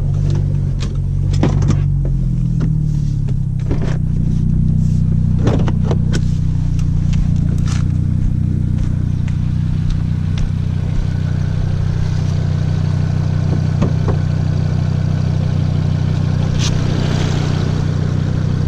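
Audi TT RS's turbocharged five-cylinder engine with an Ego X exhaust, dropping in revs as the car pulls in, then idling steadily. A few scattered clicks are heard in the first several seconds.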